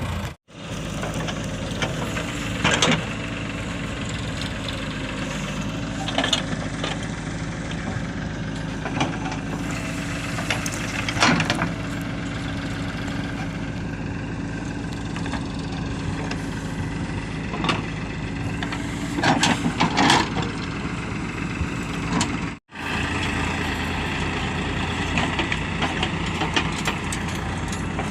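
Heavy diesel engine running steadily at low revs, with scattered short knocks and clanks over it. The sound cuts out briefly twice.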